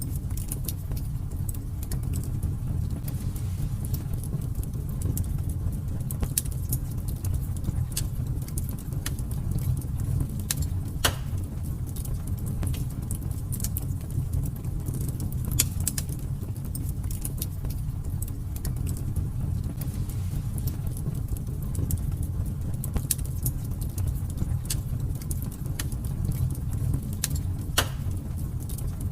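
Fire burning in a fireplace: a steady low rumble of flames under frequent sharp crackles and pops, with a couple of louder pops about eleven seconds in and near the end.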